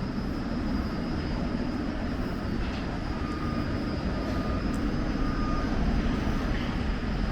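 Steady low rumble of vehicle noise, with a faint steady high whine above it.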